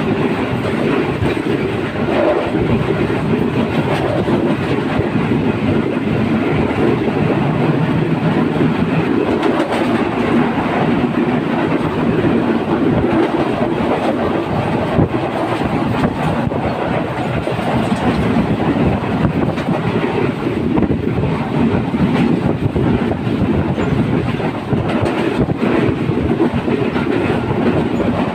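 Passenger train running along the track: a steady, loud rumble of the carriages with the clickety-clack of the wheels over rail joints.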